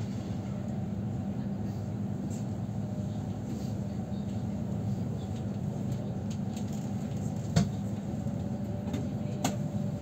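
Steady low rumble inside the passenger car of a Moscow Central Circle electric train running between stations. Two sharp knocks come near the end, about two seconds apart.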